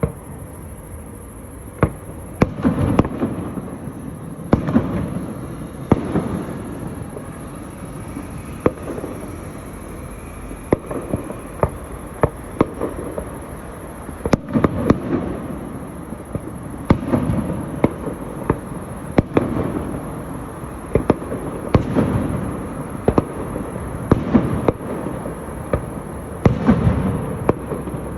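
Fireworks display: a steady series of sharp bangs every second or two, with rumbling booms and crackle between them.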